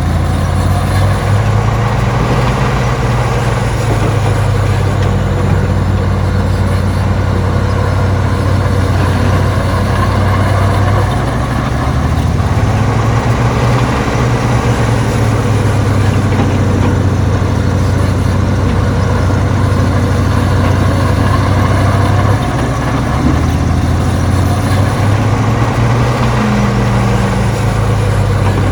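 Heavy diesel engine of an earthmoving machine running steadily, with a low engine note whose pitch steps up and down a few times, about a third, three quarters and nine tenths of the way through.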